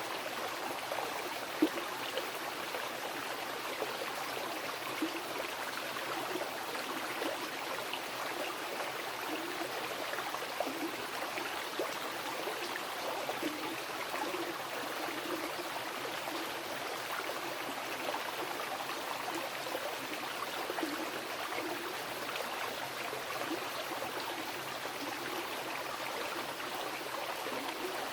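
A river flowing: a steady rush of water with small gurgles and splashes throughout, and one brief sharper sound about a second and a half in.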